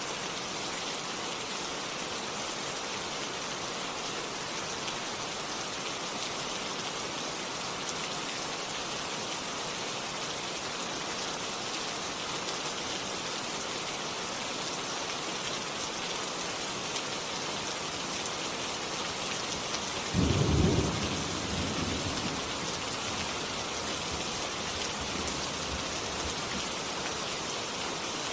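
Steady rain falling, an even hiss. About two-thirds of the way through, a sudden thunderclap breaks in and rumbles away over a few seconds.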